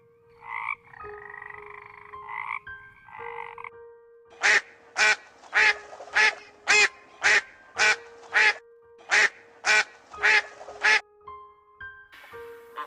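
Animal calls: softer croaking calls in the first few seconds, then a run of about a dozen loud, evenly spaced calls, nearly two a second, over a steady held tone.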